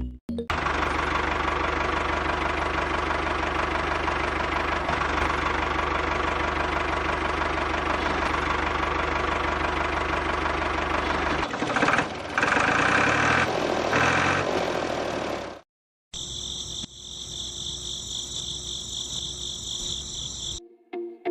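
A small motor running steadily with an even, buzzing hum; it changes slightly near the middle and stops. After a brief gap, a different, higher-pitched whirring runs for a few seconds.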